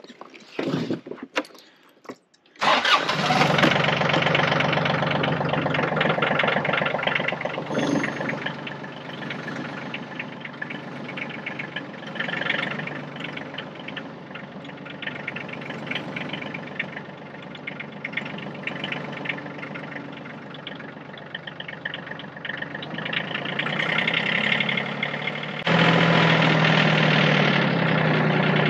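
Yanmar compact tractor's diesel engine cold-starting in freezing weather: a few short clicks, then it catches about three seconds in and runs steadily. Near the end it steps up and runs louder as the throttle is raised.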